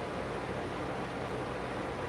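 Steady, even rushing noise with a low hum underneath.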